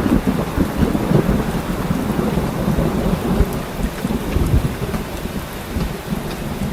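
Heavy rain pouring steadily, with a low rolling rumble of thunder that slowly eases off.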